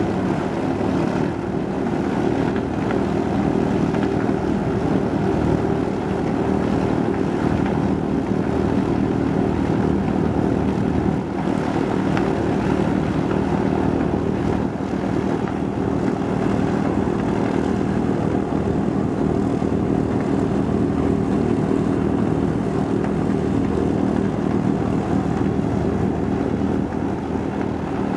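Piston-engine propeller aircraft running at a steady speed, a loud, even engine drone with no rise or fall in pitch.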